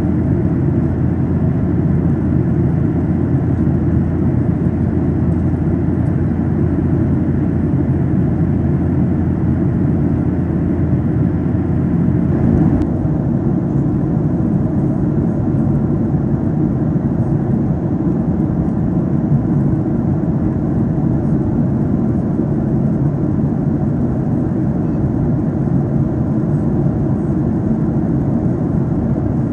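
Steady cabin drone of a Boeing 737-800 in flight: a low rushing roar of airflow and its CFM56 engines. About halfway through the lowest rumble drops slightly after a faint click.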